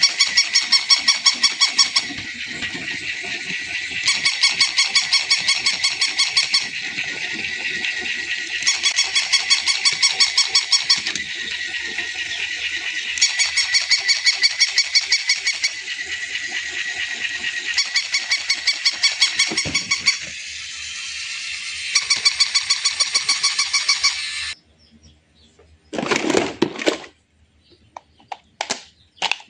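Electronic sound effect from a battery-operated toy: a high, buzzy honking tone that switches about every two seconds between rapid pulsing and a steadier tone, cutting off suddenly near the end, followed by a brief clatter and a few clicks.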